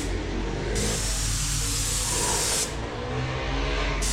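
Compressed-air paint spray gun hissing as it sprays primer onto the car body. The hiss eases off and comes back once in the last part, as the trigger is released and pressed again.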